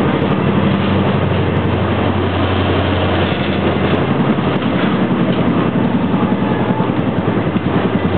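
Steady running noise of a passenger train, heard from inside the carriage as it travels at speed. A low hum in the first few seconds fades out about three seconds in.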